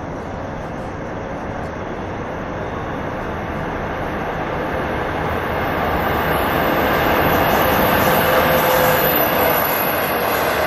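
SS8 electric locomotive hauling a passenger train approaches and passes: the rumble of steel wheels on the rails grows steadily louder. A faint high whine joins about halfway through.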